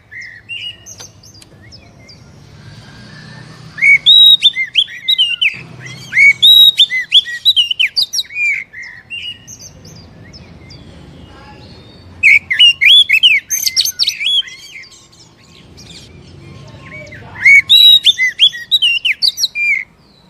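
Oriental magpie-robin singing in loud, rapid bursts of quick gliding notes, three such bursts with quieter song between them.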